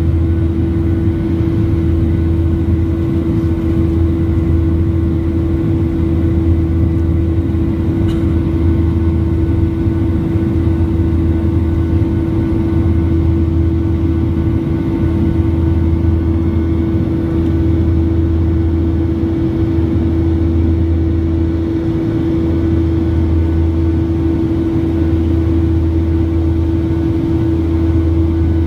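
A Boeing 737-800's CFM56 jet engines running steadily: an even drone with a low, slightly pulsing hum and a constant mid-pitched tone.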